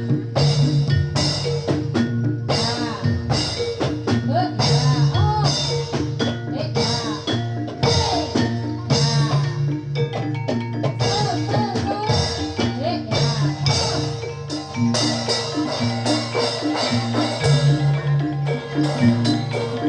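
Javanese gamelan playing Jathilan dance music: drums and metallophones striking a steady, even beat over low sustained tones.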